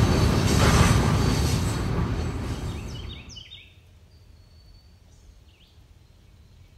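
Loaded coal hopper cars rolling across a steel truss railroad trestle, a steady rumble that fades out about three seconds in. After that it is quiet, with a few birds chirping.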